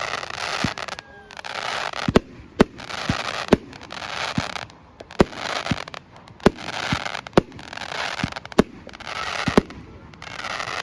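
Fireworks display: a dozen or so sharp bangs of bursting shells, between them hissing, crackling stretches about a second long, one after another.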